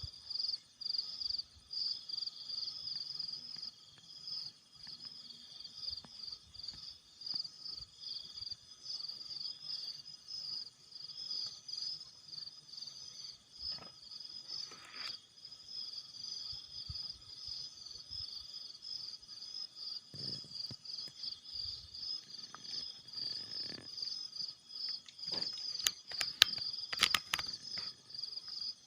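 Night insects trilling steadily: one unbroken, fast-pulsing high-pitched chorus. A few sharp clicks and knocks come near the end.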